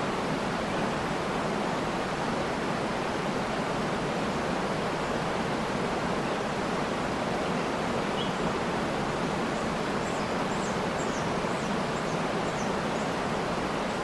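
Waterfall rushing steadily, with faint high bird chirps: one a little past the middle, then a short run of them near the end.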